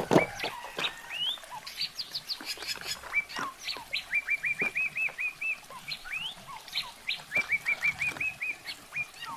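Small birds chirping, with scattered single chirps and two quick runs of six to eight repeated short notes, the first about four seconds in and the second about seven seconds in.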